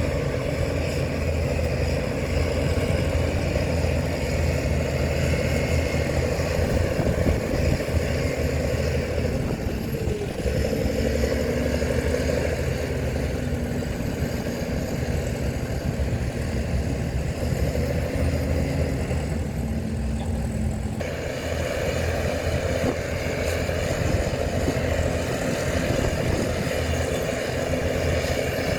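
Diesel engines of heavy earthmoving machinery (a bulldozer and dump trucks) running steadily with a deep rumble. The sound shifts abruptly about two-thirds of the way through.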